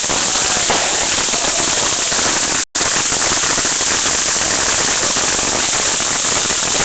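Ground fountain firework spraying sparks with a dense, steady hiss and crackle. The sound drops out completely for an instant just under three seconds in.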